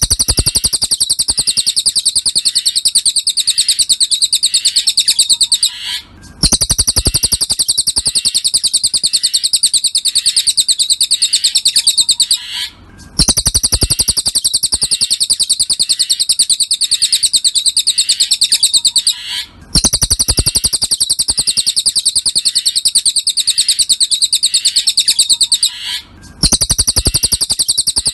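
Cililin song: a rapid, high-pitched trill held for about six seconds at a time, broken by short pauses, repeated four times.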